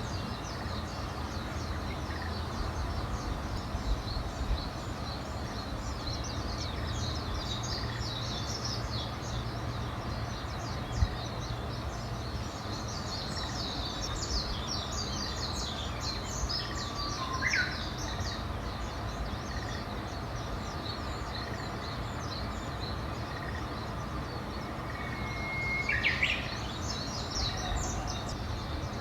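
Wild birds chirping and twittering in a busy, continuous chorus of quick high notes, with a few louder, clearer calls about two-thirds of the way through and near the end. A steady low rumble of background noise runs underneath.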